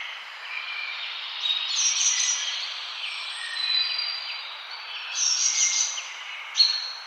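Several birds singing and chirping over a steady background hiss, with louder bursts of song about two seconds in and again around five to six seconds in.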